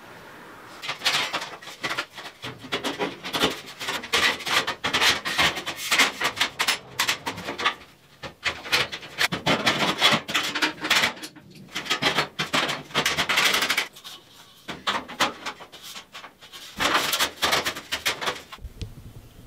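Rapid, irregular scraping and rasping on wood, stroke after stroke, with short pauses about eight seconds in and again near the end.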